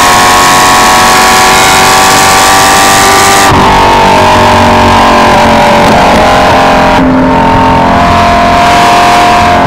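Car engine at high revs on a race track, heard loud inside the cabin over heavy wind and road noise. The engine note climbs steadily under acceleration, changes abruptly about three and a half seconds in, and falls after about seven seconds as the car slows.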